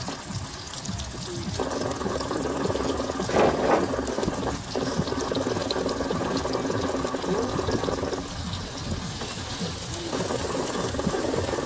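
Onions, garlic and green chillies sizzling and crackling in hot oil in a wok. A louder burst comes about three and a half seconds in, and a steadier background noise starts and stops abruptly a few times.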